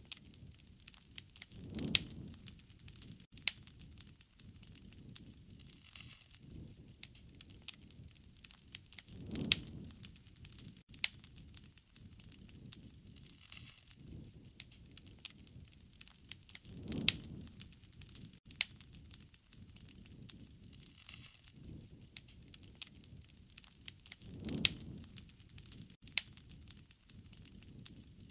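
Wood fire crackling, with frequent sharp pops and snaps over a soft hiss. A low rushing swell of the flames comes back about every seven and a half seconds.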